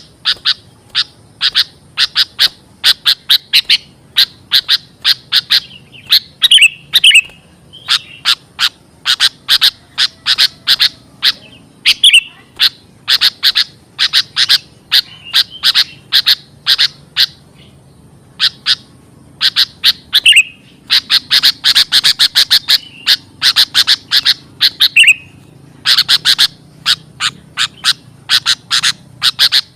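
Sooty-headed bulbul (kutilang) calls: fast runs of sharp chip notes, several a second, in bursts with short pauses between, with a few down-slurred notes mixed in.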